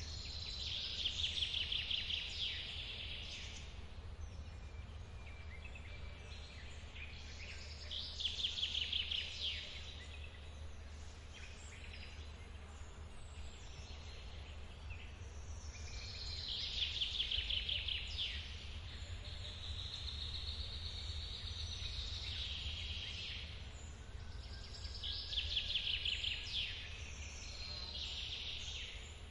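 A songbird sings a rapid trilled phrase four times, about every eight seconds, over the steady low rumble of a waterfall in the forest.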